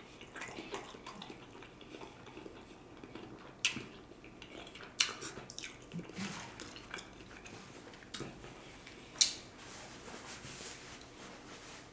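Faint wet handling of hot, pressure-cooked smoked turkey legs, with a few sharp clicks of dishware or utensils, about 4, 5 and 9 seconds in.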